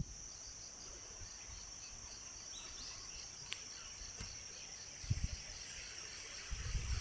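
Insects chirping at night-time pitch: a steady high trill with a slower pulsing chirp beneath it, about three pulses a second, typical of crickets in late-September fields. Low rumbles break in about five seconds in and again near the end.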